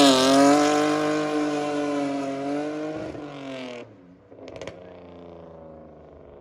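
Car engine held at high revs, one steady note that sags slightly, cutting off suddenly about four seconds in; after it only a faint low hum and a couple of clicks.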